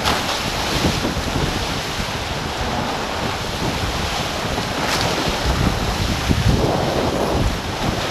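Wind buffeting the on-board microphone over the rush and splash of water along the hulls of a racing sailing catamaran under way, with a few louder surges.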